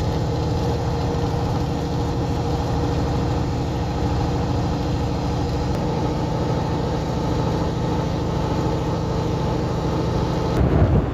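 Semi truck's diesel engine running steadily at a constant pitch, heard from inside the cab while driving. Near the end a sudden rush of wind noise comes in over it.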